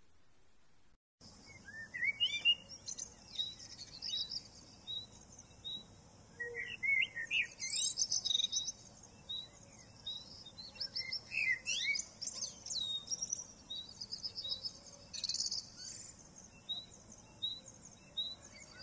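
Several songbirds singing and chirping together, starting about a second in, with one bird repeating a short high note over and over among quicker trills and chirps from others.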